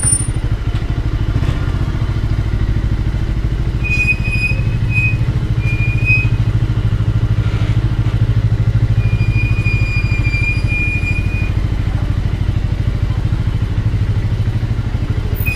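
Motorcycle engine running steadily at low speed, with an even low pulsing from the exhaust. A thin high-pitched squeal sounds briefly about four seconds in, again shortly after, and for a couple of seconds past the middle.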